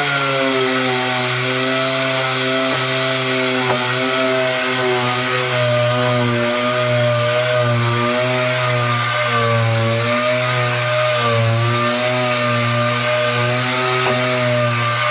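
Handheld electric power tool running continuously at a steady high speed, its pitch dipping slightly now and then as it meets load.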